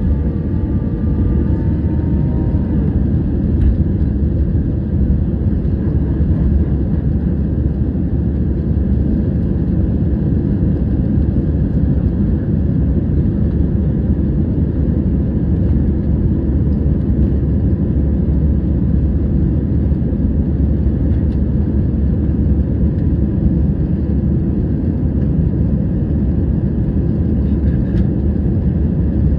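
Airbus A320 jet airliner during takeoff, a loud, steady, deep roar of engines and airflow that holds even throughout. Faint whining tones fade out in the first few seconds.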